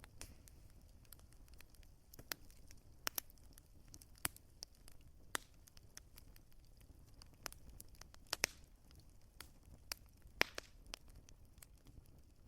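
Wood fire crackling: irregular sharp pops and snaps, about one or two a second, over a faint low rumble and hiss.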